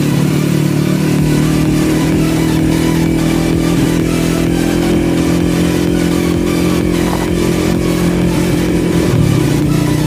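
Supermoto motorcycle engine running at a fairly steady speed as the bike rides along, dipping in pitch for a moment near the end.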